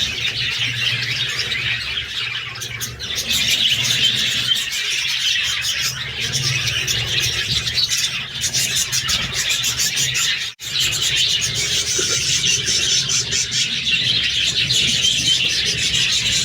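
A group of budgerigars chattering and chirping continuously over a steady low hum, with the sound cutting out briefly about ten seconds in.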